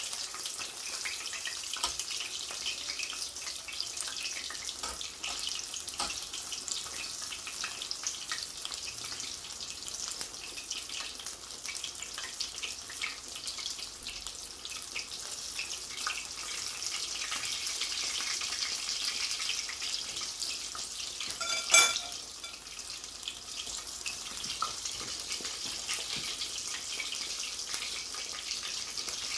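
Breadcrumbed chicken fillet shallow-frying in hot sunflower oil in a frying pan: a steady crackling sizzle full of small pops. About three-quarters of the way through, a single sharp metallic clink rings out.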